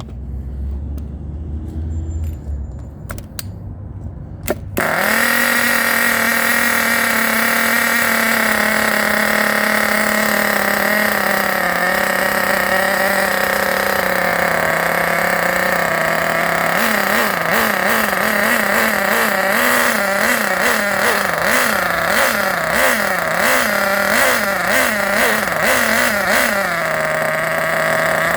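Small nitro glow engine with a slide carburettor in a 1/8-scale RC car, a 'Hyper' race engine, catching suddenly about five seconds in after a low rumble, then idling with its pitch slowly settling lower. From about the middle it is blipped with the throttle in about ten quick rises and falls in pitch, then drops back to a steady idle near the end.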